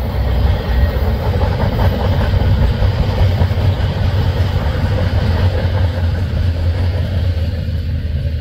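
Freight train of autorack and double-stack cars rolling past, a steady rumble of wheels on rail.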